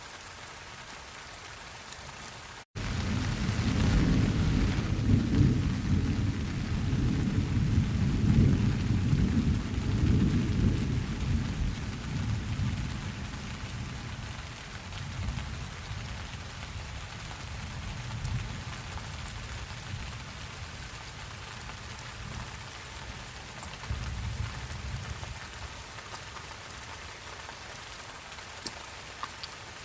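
Steady rain with a long roll of thunder that breaks in suddenly about three seconds in. The thunder is loudest over the next several seconds, then slowly rumbles away, with a smaller swell near the end.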